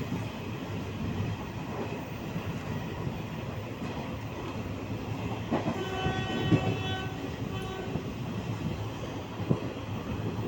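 A steady rumbling with clatter and a few knocks, and a horn-like pitched tone sounding in three short blasts about six seconds in.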